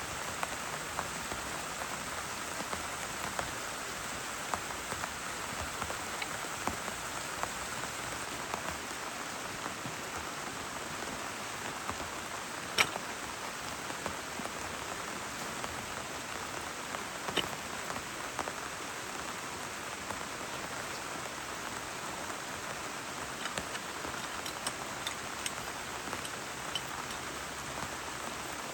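Steady rain falling, with scattered single drops tapping close by. The sharpest taps come about 13 and 17 seconds in.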